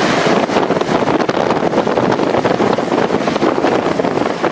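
Strong wind buffeting a microphone in tornado storm footage: a loud, steady rushing noise with crackling gusts.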